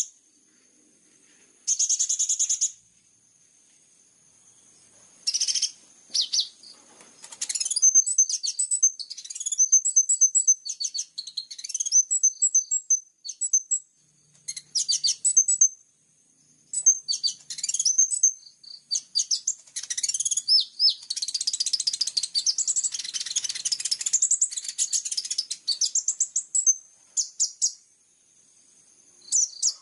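Javan bush lark (branjangan) song: rapid, varied high chirps, trills and whistles, a couple of short phrases at first, then a long dense run of song from about seven seconds in, with brief pauses. A steady high cricket-like tone runs underneath.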